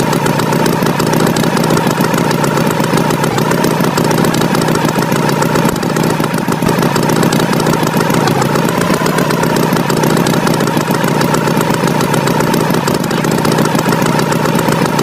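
Tractor engine sound effect running steadily at an even pitch throughout.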